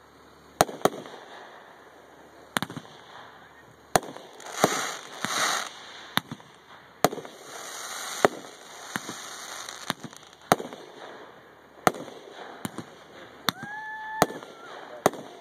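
Aerial firework shells bursting: about a dozen sharp bangs at irregular intervals, with a stretch of hissing crackle about four to six seconds in.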